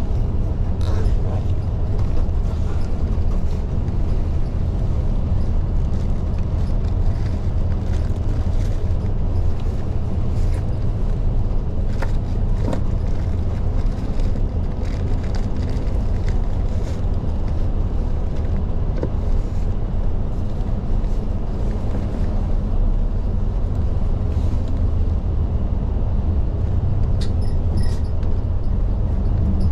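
Isuzu Erga city bus heard from inside at the front while driving along the road: a steady low rumble of engine and road noise, with a few faint clicks and rattles.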